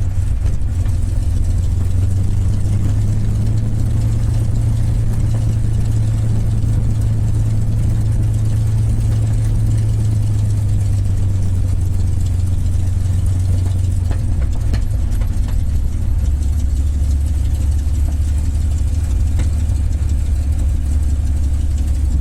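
P-51 Mustang's Rolls-Royce Merlin V-12 engine running steadily at low taxi power, a deep even drone that drops slightly in pitch about two-thirds of the way through.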